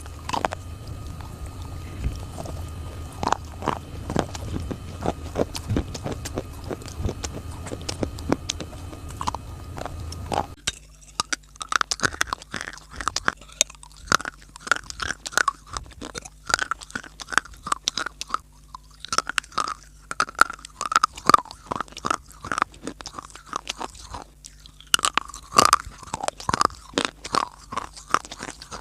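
Close-miked biting and chewing of hard, dry clay: a long string of sharp crunches. About ten seconds in, the low background hum drops away and the crunches stand out more cleanly.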